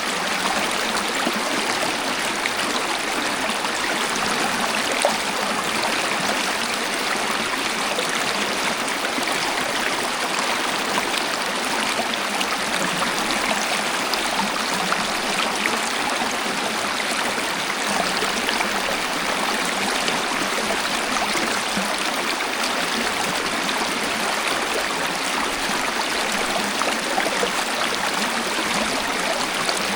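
Waterfall: a steady, even rush of falling water, with almost no deep rumble.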